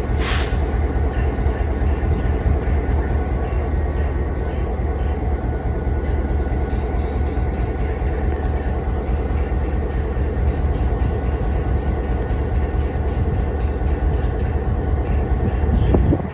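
Diesel-hydraulic locomotive DHL 108 running with a steady, heavy low rumble, and a brief hiss right at the start.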